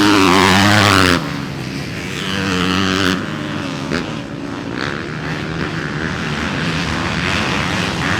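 Motocross dirt bike engines revving and running hard, with sudden drops in level about a second in and again about three seconds in.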